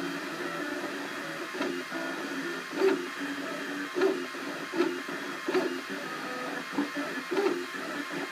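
Cubify 3D printer's stepper motors whining in short tones that keep changing pitch as the print head moves, with a louder click about every second.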